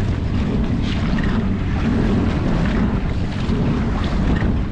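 Wind buffeting the microphone over choppy water lapping and splashing against a kayak's hull.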